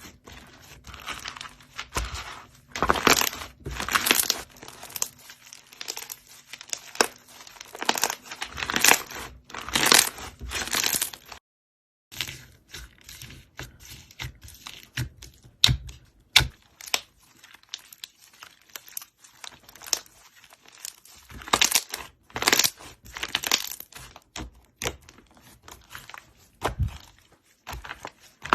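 Slime being handled by hand: irregular squishing bursts with many small sharp clicks and crackles, cutting out briefly about eleven seconds in.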